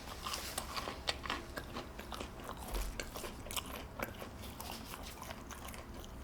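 A person chewing a mouthful of fast food, with many small, irregular clicks.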